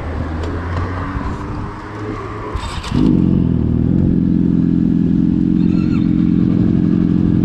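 Motorcycle engines running while stopped. About three seconds in, a louder engine note comes in suddenly and holds steady.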